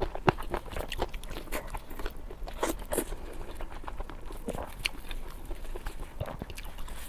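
Close-miked eating: a person biting and chewing crunchy food, with many sharp, irregular crackles and crunches.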